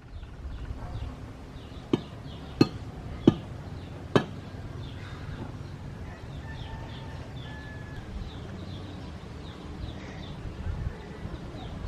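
Four sharp knocks or blows in quick succession, about two to four seconds in, over continual high, short bird chirps.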